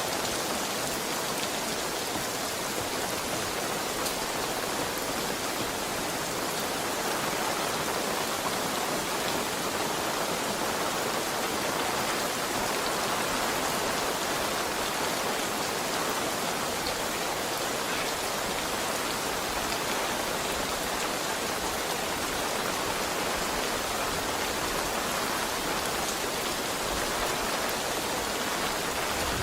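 Heavy rain falling steadily, a dense even hiss of drops with faint individual patters.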